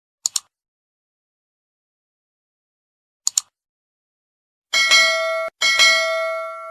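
Edited sound effects: two quick double clicks about three seconds apart, then a bell chime struck twice, the second strike ringing out and fading.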